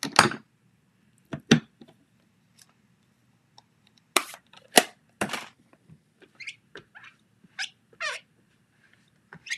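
Rubber stamp and ink pad tapping and clicking in sharp, separate knocks as ink is picked up and stamped onto card. Near the end come two short pitched, wavering sounds, the second falling in pitch.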